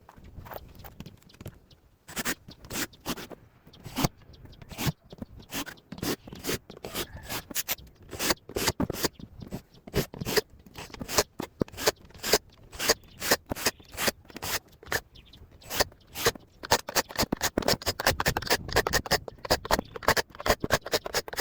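Hand work on small parts: a long run of irregular sharp clicks and scrapes, coming faster from about halfway on.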